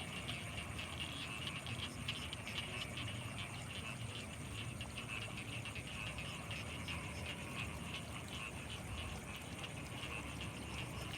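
Night chorus of frogs in rice paddies: many rapid, overlapping calls, with a steady high-pitched insect drone above them.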